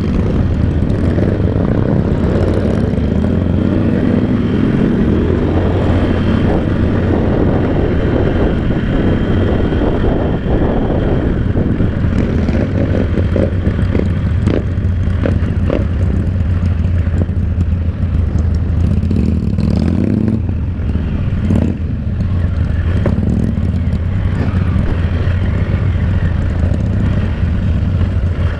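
Motorcycle engine running at a steady cruising speed, with dense wind and road rush on the rider's microphone.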